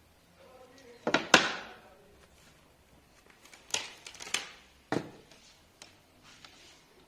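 Sharp knocks and clatter of hard objects being handled: a loud double knock about a second in, a cluster of knocks around four seconds, and one more near five seconds, with small ticks between.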